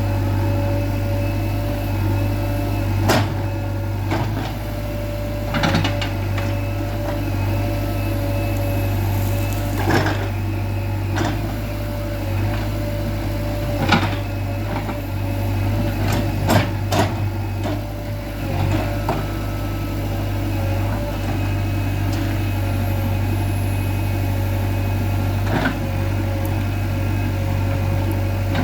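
JCB 3DX backhoe loader's diesel engine running steadily, with scattered sharp knocks and clunks on top of it.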